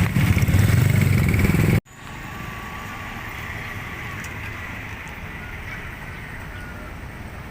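Loud, low rumble of a passing vehicle that cuts off abruptly about two seconds in, followed by quieter steady background noise with faint tones.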